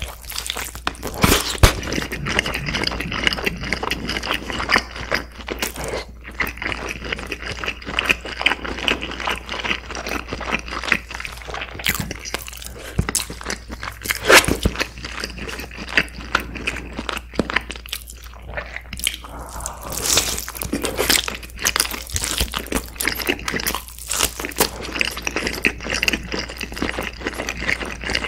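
Close-miked eating: biting into and chewing a sauce-glazed grilled whole chicken leg, with many short moist clicks and crunches of mouth and food throughout.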